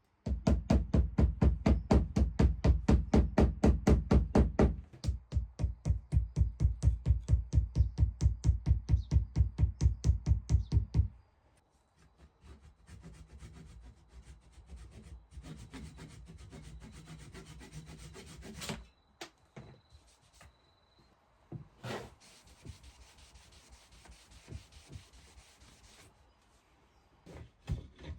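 Wood being sanded by hand, quick back-and-forth strokes at about five a second for the first ten seconds or so. After that comes a quieter, rougher scraping with a single sharp knock about two-thirds of the way through.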